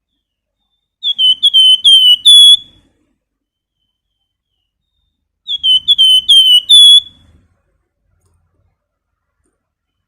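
Flamboyan bird singing two phrases of rapid, clear whistled notes, each phrase about a second and a half long with six or seven quick notes ending on a higher one, about four seconds apart.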